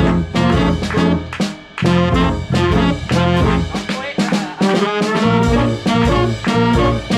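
Swing band playing a swing tune with brass to the fore, trombones among them, over a steady beat.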